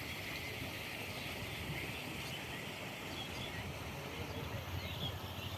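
Faint bird calls, a few short chirps over a steady high hiss, with a low uneven rumble underneath.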